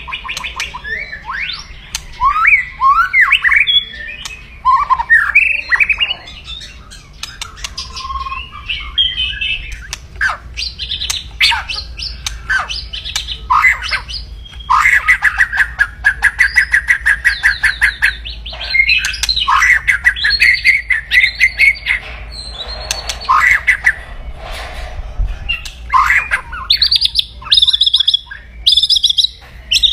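White-rumped shama (murai batu) giving its aggressive 'kretekan' song: rapid harsh rattles mixed with quick trills and whistled notes, with one long fast rattle about halfway through.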